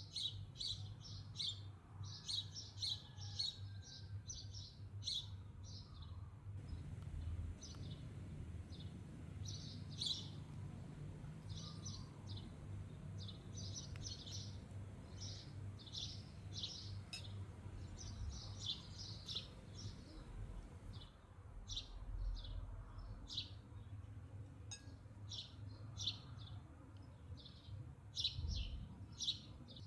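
Birds chirping: many short, high notes in quick runs, over a low steady rumble.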